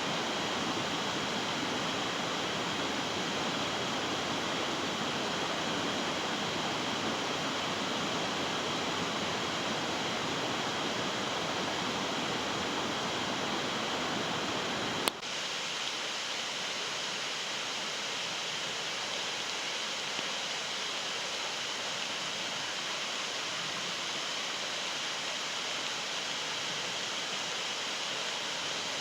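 Steady rush of flowing stream water. About halfway through there is a sharp click, after which the rush is slightly quieter and thinner, with less low rumble.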